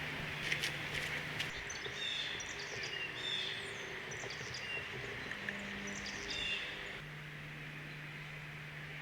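Small birds chirping in several short call series over a steady outdoor hiss and a low hum, with a few sharp clicks about a second in.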